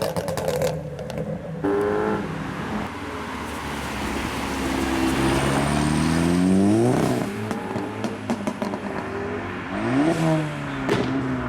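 Tuned car engines revving hard under acceleration. The pitch climbs to a loud peak about seven seconds in, then drops, and a second shorter rev follows near the end. Sharp exhaust pops and crackles come at the start and again just before the end.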